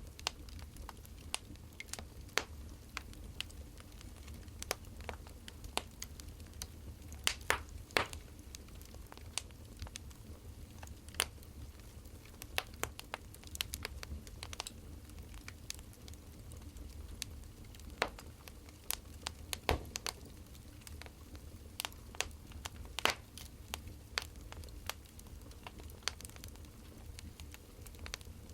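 Wood fire crackling: irregular sharp pops and snaps, a few each second, over a steady low rumble.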